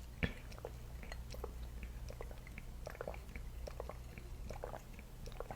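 A person chewing food close to the microphone: soft, irregular mouth clicks several times a second.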